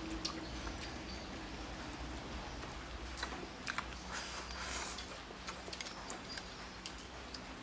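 Close-up eating sounds: a person biting into food and chewing with small wet clicks, a louder stretch of chewing about four to five seconds in.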